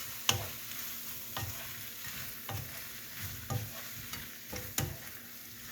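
Chicken, onions and peppers in sauce sizzling gently in a skillet while a utensil stirs them, knocking against the pan about once a second.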